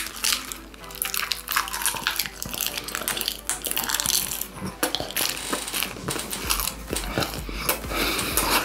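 Close-miked mouth sounds of chewing a leaf wrap filled with gummy candies: many short, irregular crunches and clicks, with faint background music.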